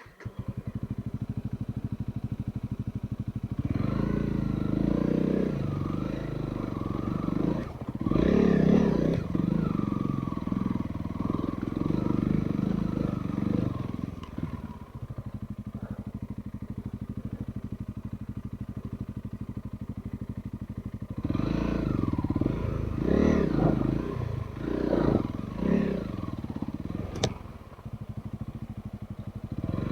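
Off-road trail motorcycle engine running. It comes in suddenly near the start, settles to a steady idle, and is revved under load twice, with a lower steady run in between. A single sharp click sounds near the end.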